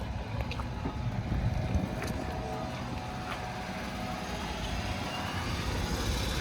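A vehicle running steadily with a low rumble.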